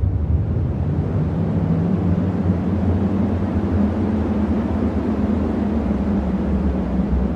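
Strong cyclone wind blowing as a steady, heavy low rumble.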